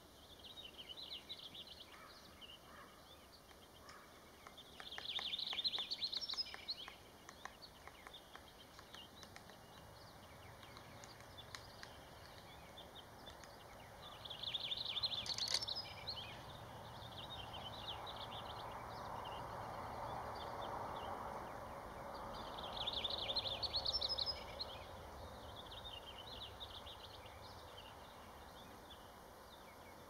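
Bird sounds in a forest: a short, rapid roll or trill about a second and a half long, heard three times roughly nine seconds apart, with fainter shorter ones between, over low background noise.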